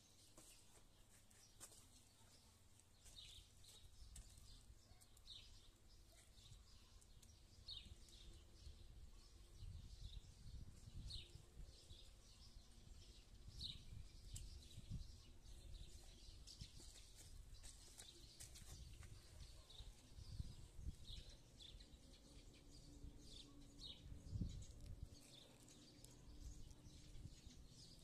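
Faint bird chirps, short and high, repeating every second or two, over a low rumble that gets louder from about eight seconds in.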